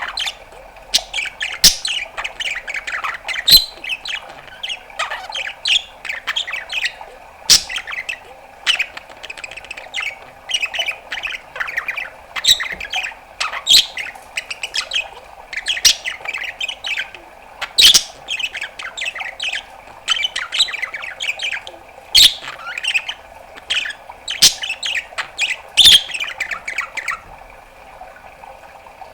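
Budgerigar warbling and chattering in a fast, unbroken run of chirps, squawks and sharp clicks, which stops about two seconds before the end.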